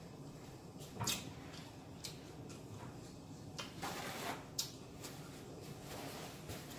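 Faint mouth sounds of eating corn on the cob: chewing, with a few short smacks or clicks and a brief rustle about four seconds in.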